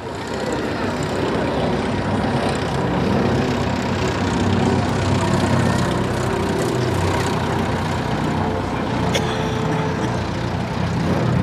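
Radial piston engines of Douglas C-47 Skytrain aircraft running steadily, a dense low engine sound that holds at a near-constant level, with a faint click about nine seconds in.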